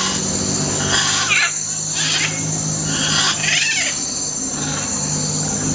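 Macaw giving three or four short, harsh squawks in the first four seconds, over a steady low hum.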